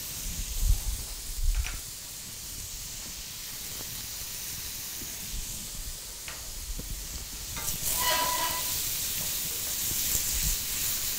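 Shrimp sizzling in hot oil in a stainless steel wok, a steady frying hiss, with low knocks of a wooden spatula stirring them in the first couple of seconds.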